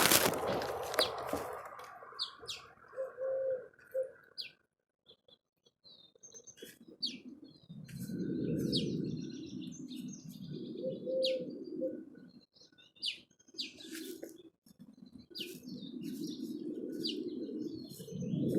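Small birds chirping at a feeder: many short, high chirps scattered throughout, with a few low sounds a second or more long in the second half. A loud brief flurry right at the start.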